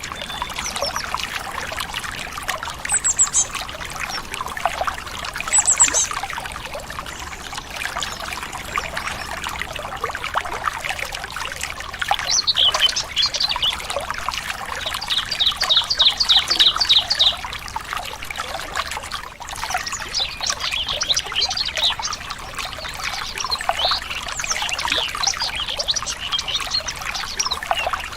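A stream trickling and splashing steadily, with birds chirping over it: short high calls now and then, and a fast trill of repeated notes about halfway through.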